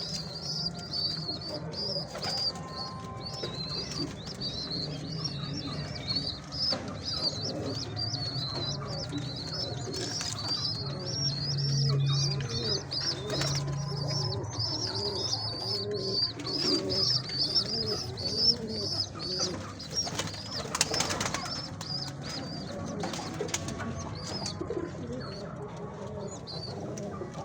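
Pigeons cooing, over a continuous rapid high-pitched chirping, with a brief flutter of wings about twenty seconds in.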